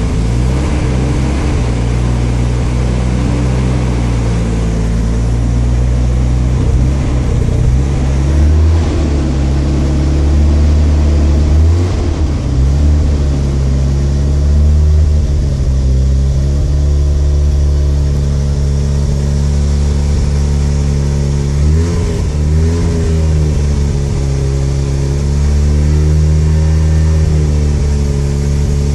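1988 Mazda RX-7 Turbo's 13B rotary engine running steadily on a held throttle, its pitch dipping and recovering briefly a few times. The engine will not idle on its own and stalls when the gas pedal is released, while running rich enough that a lot of fuel is smelled at the exhaust.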